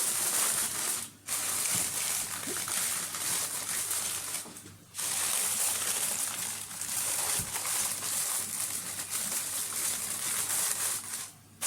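Aluminium foil being crinkled and folded over a baking tray, a continuous rustling crackle with two brief breaks.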